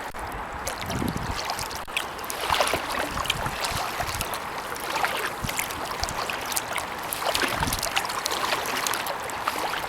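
Kayak paddle strokes in the water: steady splashing and dripping from the paddle blades, with a couple of low thuds.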